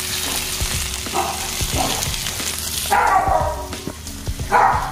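Red-onion rings frying in oil in a nonstick pan, with a steady sizzle that fades about three seconds in. A few short pitched calls cut in over it, the loudest about three seconds in and again near the end.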